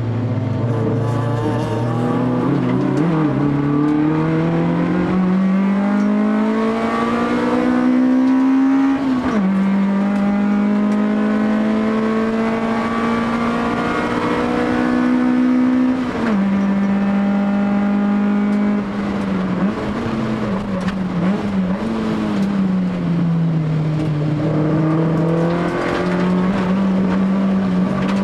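Honda ZC 1.6-litre DOHC four-cylinder on Solex 44 carburettors with a straight-pipe exhaust, driven hard on track. It climbs in revs through the gears, with sharp drops at upshifts about a third of the way and halfway through. Near the end it falls away as the driver lifts off for a corner, then pulls up again.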